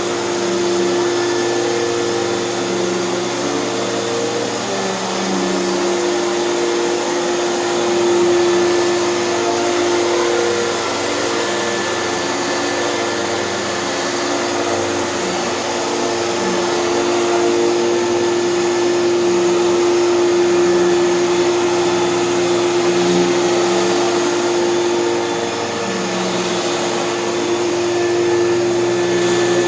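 Hoover canister vacuum running steadily with its Hoover power nozzle attached: a constant motor hum with a steady tone over airflow noise, and lower hum bands that waver and come and go throughout.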